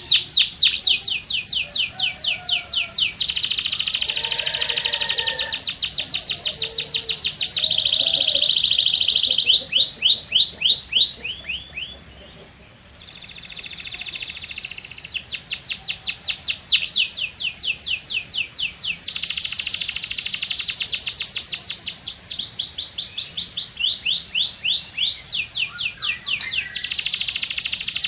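Domestic canary singing a long song of fast trills: rapidly repeated high notes, the trill type switching every second or two, with a short break about twelve seconds in before the song picks up again.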